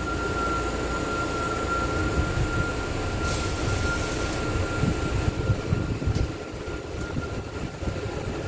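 Wuling Almaz Turbo's turbocharged petrol engine idling steadily, with a thin steady whine above it that fades out about five seconds in.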